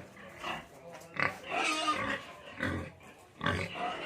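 Pigs grunting in irregular bursts, with one longer, higher call about a second and a half in.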